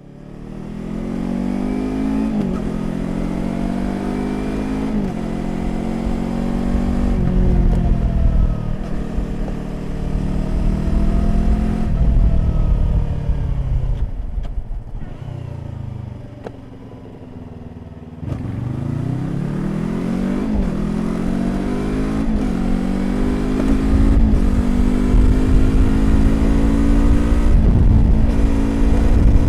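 Yamaha YZF-R25's parallel-twin engine through a Prunus aftermarket exhaust, accelerating up through the gears, the pitch climbing and dropping at each shift. About halfway through it slows with falling pitch, then accelerates through several gears again.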